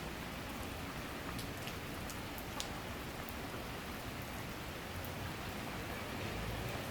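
Summer rain shower falling steadily: an even hiss with scattered sharp drip ticks. A low rumble comes in near the end.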